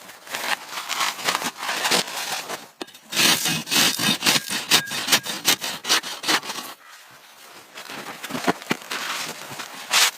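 Rough, rapid scraping and rubbing on wood in dense uneven strokes, easing off for a moment about seven seconds in before picking up again.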